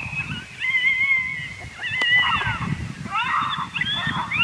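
Coyote howls and yips: several high-pitched, wavering calls overlapping, many ending in falling yelps.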